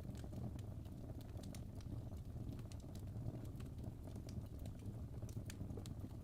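Fire crackling: irregular sharp snaps and pops, several a second, over a steady low rumble.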